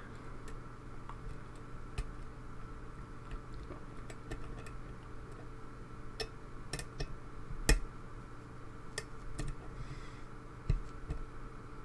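Hook pick working the pins of a pin-tumbler lock under tension during single-pin picking: small, irregular metallic clicks and ticks, the loudest a little before 8 seconds in.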